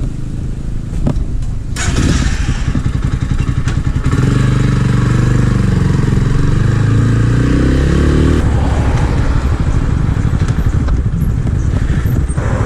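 Small-capacity 250 cc motorcycle engine running as the bike pulls away and accelerates. The engine note rises about two seconds in, is strongest for several seconds, then settles into steady running with wind noise.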